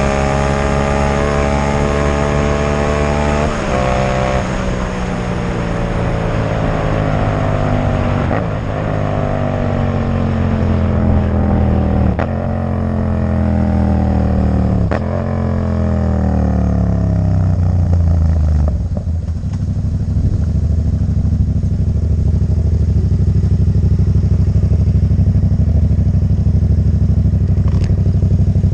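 Yamaha MT-07's 689 cc parallel-twin engine through a Black Widow exhaust with the dB killer removed, accelerating up through the gears. The pitch climbs and drops sharply at each of about four upshifts, then settles to a steady lower engine note for the last third.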